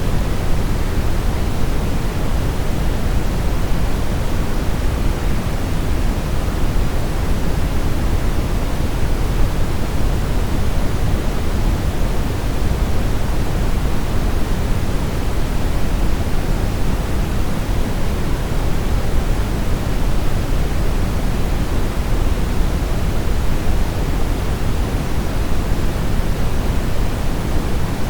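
Steady brown noise: an even, unbroken rushing hiss weighted heavily toward the deep end, with no changes.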